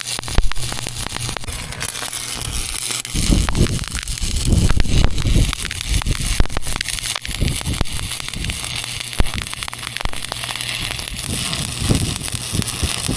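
Electric arc welding: a steady crackling sizzle from the welding arc, with wind buffeting the microphone from about three seconds in.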